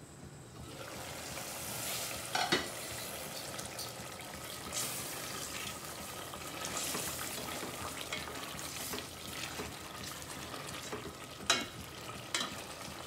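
Chicken in a tomato-and-spice masala sizzling in a steel pot while being stirred with a spatula, the sizzle swelling as the lid comes off. Two sharp clanks stand out, one about two seconds in and one near the end.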